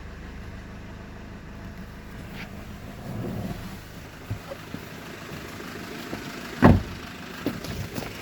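Great Wall Cannon's 2.0-litre turbo-diesel idling steadily after a rev. A single loud thump comes about two-thirds of the way through, with a few lighter knocks near it.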